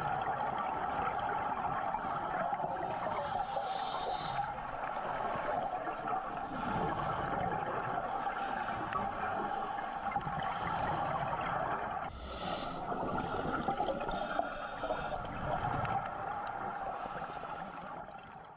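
Underwater recording: steady water noise with bursts of bubbling every second or two.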